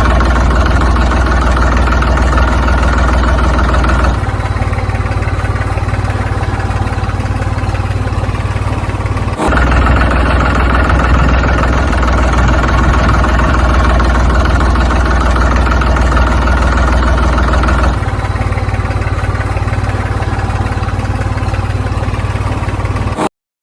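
An engine running steadily at idle with a strong low rumble, its tone shifting abruptly three times and cutting off suddenly just before the end.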